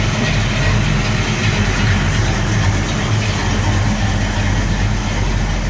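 Big-cam 468 cubic inch Pontiac V8 idling steadily at about 750 RPM.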